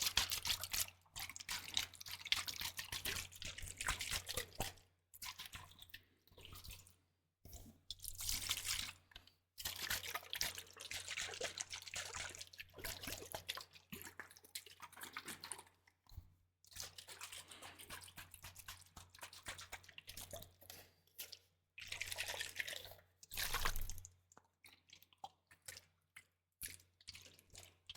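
Close-miked liquid sounds: wet dripping and crackling, coming in bursts of a second or two with abrupt silent gaps between.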